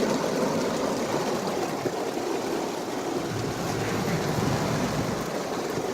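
Heavy rain pelting a moving car and its tyres hissing on the wet road, a steady wash of noise heard from inside the car.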